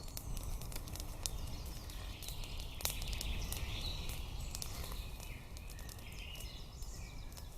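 Scattered sharp clicks and crackles over a steady low rumble, with faint bird calls chirping high above.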